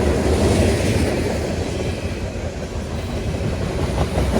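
Freight train cars rolling past close by, a steady heavy rumble of wheels on the rails.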